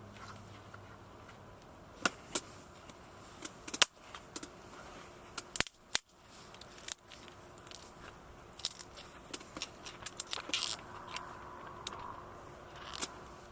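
Scattered sharp clicks, light knocks and brief scrapes of small gear being handled, irregular and separated by short pauses.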